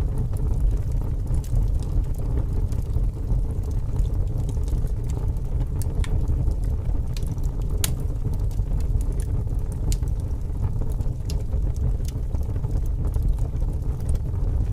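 Wood fire burning with scattered sharp crackles and pops, over a steady low rumble of strong wind.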